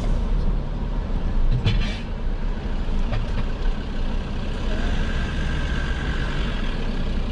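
Inside a truck's cab as it creeps forward in slow traffic: steady low engine and road rumble, with a brief rattle about two seconds in.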